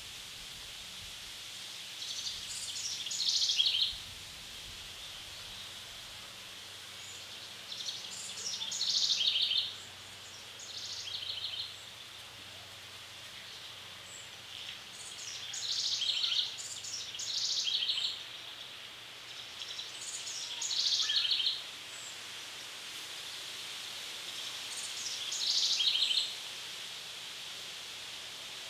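A songbird in woodland sings short phrases about seven times. Each phrase starts high and drops into a quick trill. A steady high hiss runs underneath.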